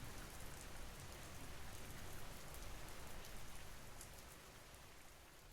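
Steady rain ambience, a recorded rain sound effect with scattered drop ticks, beginning to fade out about four seconds in.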